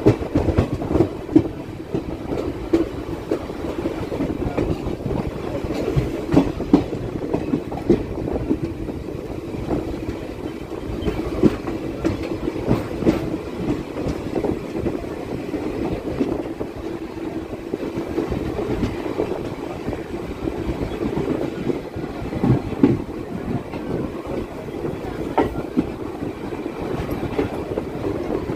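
Passenger train coach running along the track, heard at an open window: a steady rumble of the wheels on the rails, broken by irregular clicks and knocks as the wheels pass over joints and points.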